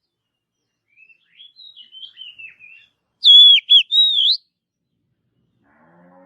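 Oriental magpie-robin (kacer) singing: a soft, rambling twitter, then about three seconds in a loud phrase of three sweeping whistled notes.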